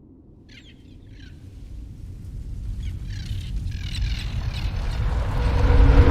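A few short bird calls, each a quick falling chirp, over a deep rumble that swells steadily louder throughout.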